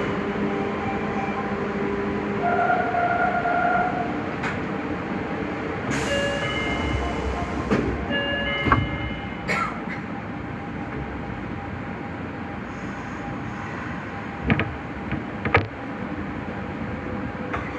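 Nagoya subway 5050-series electric train running, its motors humming under steady rolling noise. Sharp clunks come from the wheels over rail joints or points, and high squealing tones sound for a few seconds around the middle.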